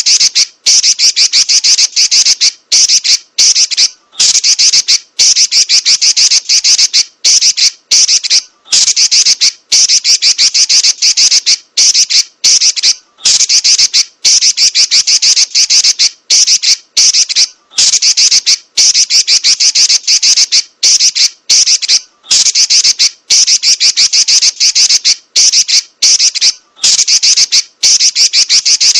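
Female Pekin robin (red-billed leiothrix) giving a loud, shrill, very rapid chatter of fast-repeated notes, run together into long rolls with brief breaks every second or so.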